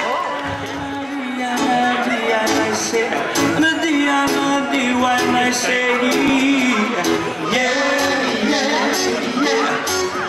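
Live Hawaiian band playing a song, with held notes, a steady strummed and percussive beat, and a sung vocal line.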